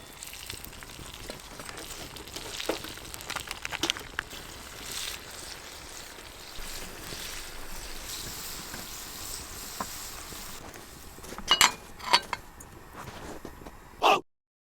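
Food sizzling in a pan, with scattered crackles and a few sharp metal clinks of a utensil against the pan about two-thirds of the way in and again near the end.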